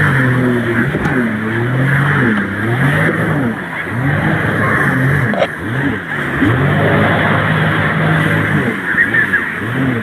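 Motorboat engine running hard, its pitch rising and falling again and again, over a steady rushing noise.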